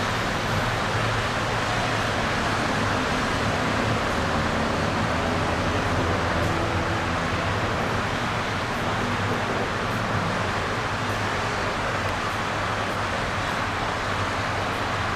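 Steady mechanical noise: a constant hiss over a low, even hum, with no distinct knocks or changes.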